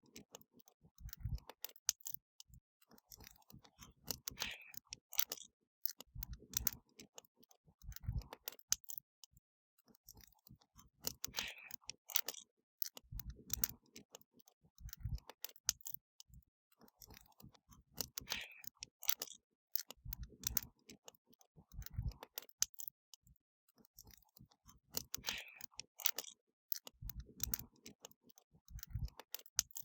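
Wood fire crackling, with sharp snaps and pops throughout and a cluster of heavier, deeper pops about every seven seconds.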